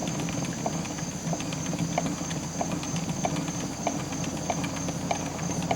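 Victor phonograph's spring motor being wound with the hand crank: a rough gear whirr with a fast run of ratchet-like clicks and a light knock about every two-thirds of a second.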